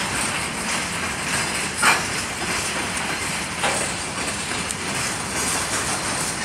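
Freight train wagons rolling past: a steady rumble of wheels on rail, broken by a few sharp wheel clacks, the loudest about two seconds in.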